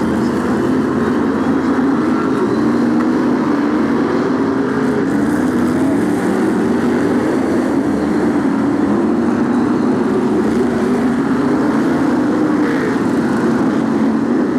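A pack of BriSCA F1 stock cars' V8 engines racing together in a continuous, loud drone, its pitch wavering up and down as the cars accelerate and lift off.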